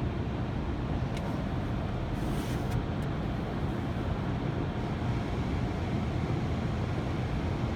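Automatic car wash machinery running, heard from inside the car: a steady low rumble, with brief hissing sprays about one to three seconds in.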